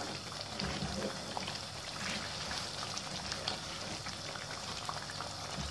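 Mutton pieces in a karahi frying in butter and oil with a steady sizzle and bubble, stirred with a wooden spoon that gives a few faint scrapes and taps. This is the bhuna stage, the last of the cooking water being fried off in the fat.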